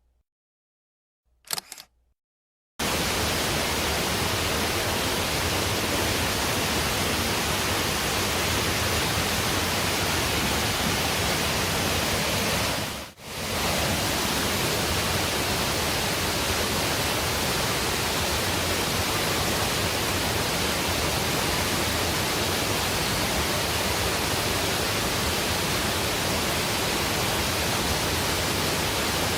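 Steady, even rushing noise with no pattern or pitch, starting suddenly about three seconds in and briefly fading out and back in around the middle.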